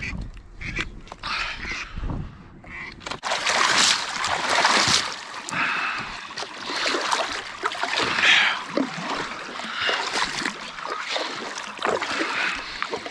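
Water splashing and trickling close by a kayak, with scattered clicks and knocks, as a caught crappie is brought aboard.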